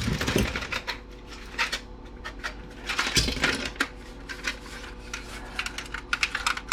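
Irregular clicks and light clatters of small metal and plastic parts being handled on a workbench, with one louder knock about three seconds in.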